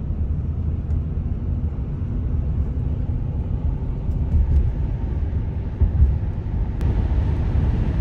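Steady low road and engine rumble inside a minivan cabin while driving on the highway, a little brighter after a click about seven seconds in.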